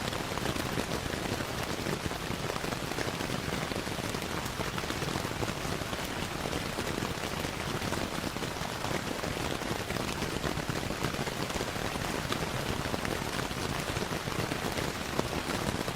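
Steady rain falling with a dense pattering of drops, mixed with the crackle of a wood fire in a fireplace.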